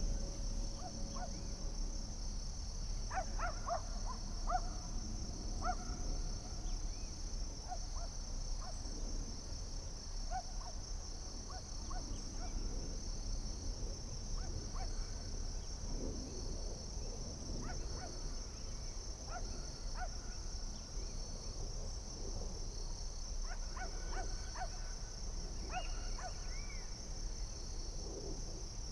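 Forest ambience: a steady high-pitched insect drone with scattered short bird and animal calls, busiest about three seconds in and again near the end, over a low rumble.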